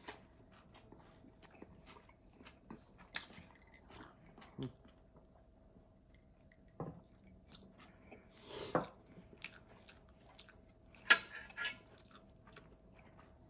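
Close-up chewing and biting of crusty sandwich bread, with soft crunches and many small clicks, and a few light knocks, the sharpest about eleven seconds in.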